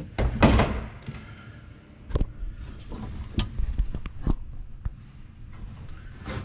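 Sharp knocks and clicks of hand tools on the aircraft engine's safety-wired oil filter: one loud knock with a short rustle just after the start, then single taps about a second apart.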